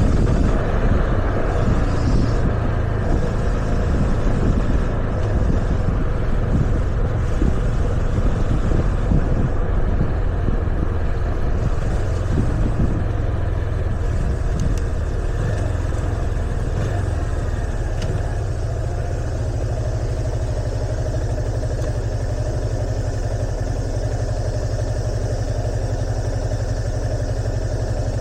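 Yamaha FZS25's single-cylinder engine running under way with a rush of wind noise. Past the middle the bike slows, and the engine settles to a steady idle.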